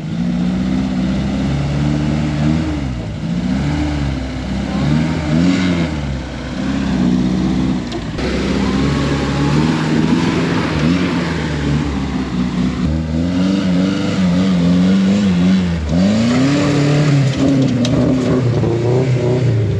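Rock-crawling rig's engine revving up and down again and again under load as the rig works forward to free its cross member from a rock it is hung up on.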